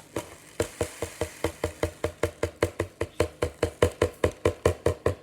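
Rapid, even knife chopping on a cutting board, about five strokes a second, making the chop mix of food for pet birds.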